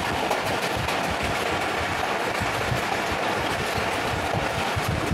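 A moving train heard from on board: a steady rumble and rattle of the wheels running on the track.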